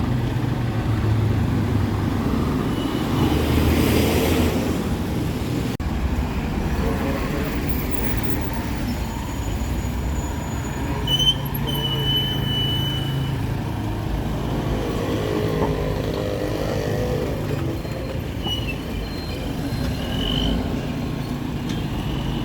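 Street traffic: vehicle engines running and passing close by, with a few short high-pitched squeals around the middle and near the end.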